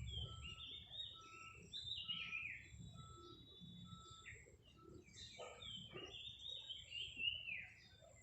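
Birds calling: repeated chirping phrases that step down in pitch, with a short, steady, higher note repeated about once a second through the first half.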